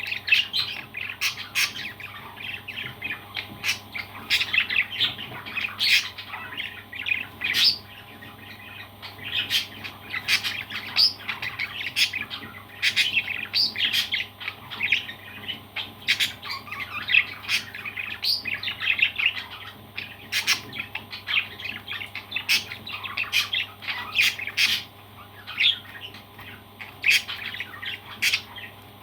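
Parrots chirping and squawking: a busy, continuous run of short high calls, with sharp clicks scattered among them.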